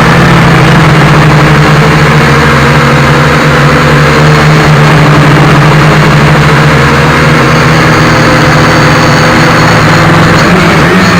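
Small quadcopter's electric motors and propellers whirring steadily, the pitch wavering as the motor speeds shift and dipping briefly near the end.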